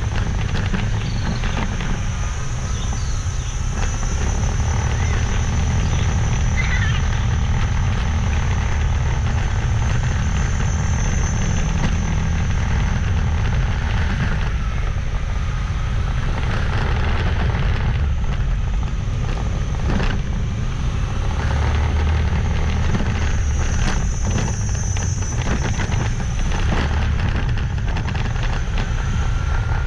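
Steady low wind rumble on the microphone over a motorbike engine running, recorded while riding.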